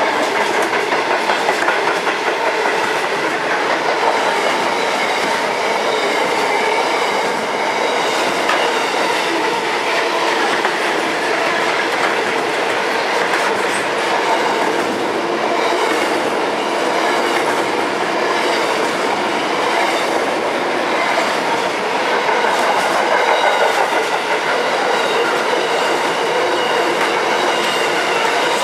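Container wagons of an intermodal freight train rolling past close by: a steady noise of steel wheels running on the rails, with faint ringing tones in it.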